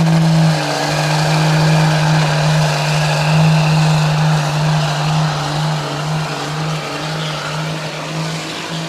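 A pickup truck's engine running hard and steady at high revs, pulling a weight-transfer sled in a truck pull, slowly easing off toward the end.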